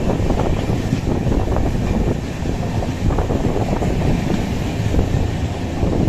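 Moving express passenger train heard from on board: a steady, loud running rumble, with wind buffeting.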